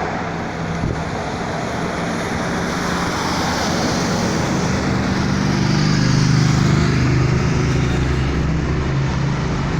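Car driving, with steady engine hum and road noise; the engine hum grows louder around the middle.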